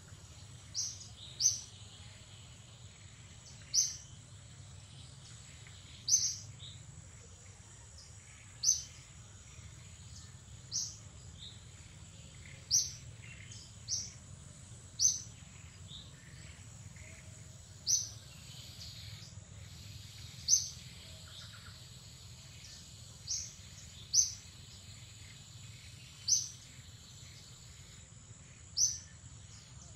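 A bird calling in short, sharp, high chirps, one every second or two, over a steady high thin hum and a low background rumble.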